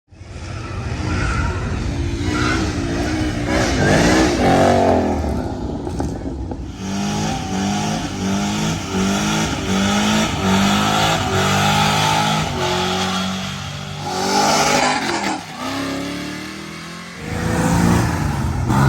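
Car engine revving and running loud, its pitch rising in sweeps about four seconds in and again near the end, with stepped pitch changes in between.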